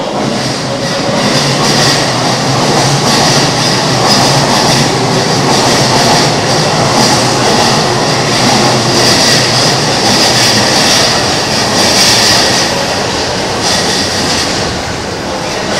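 Keihin-Tohoku Line E233-series electric train running past at close range as it pulls into the station. Its wheels and running gear make a loud, steady rumble on the rails.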